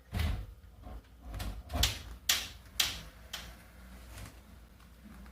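A door being unlatched and opened: a run of sharp clicks and knocks over the first three seconds or so, the loudest near the middle.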